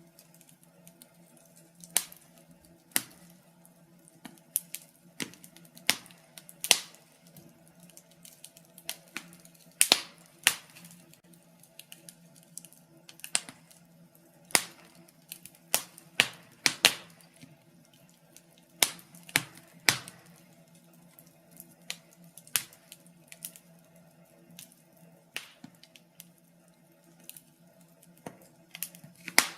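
Wood fire crackling in a fireplace: irregular sharp snaps and pops, some much louder than others, over a faint steady low hum.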